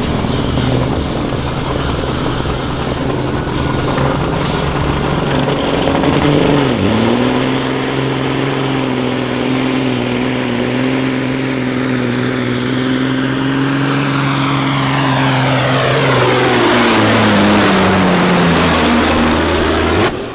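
Semi truck's diesel engine at full throttle pulling the weight sled, with a high turbo whistle that climbs over the first several seconds and then holds. In the last few seconds the engine note and the whine fall away as the truck winds down at the end of its pull.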